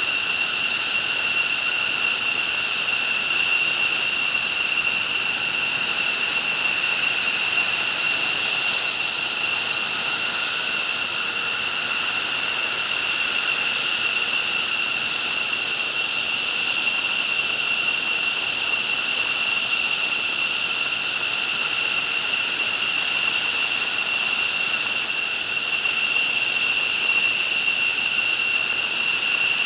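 F-15's twin Pratt & Whitney F100 turbofan engines running steadily at idle: a loud, even jet rush with a steady high-pitched whine of several tones that neither rises nor falls.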